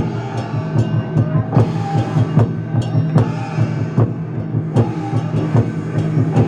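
Chinese dragon dance drum and percussion playing a steady beat, about two to three strokes a second.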